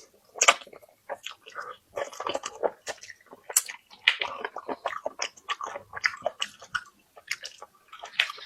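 Close-miked chewing and biting: a person eating with irregular wet smacks, crunches and mouth clicks, several a second.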